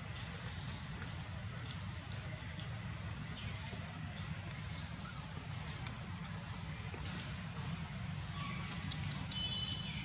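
A bird calling with short, high chirps about once a second, over a steady low rumble of outdoor background noise.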